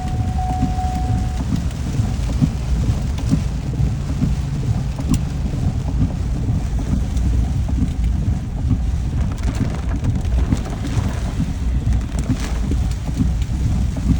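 Heavy rain falling, with a constant low rumble underneath. A faint steady tone sounds for about the first second and a half.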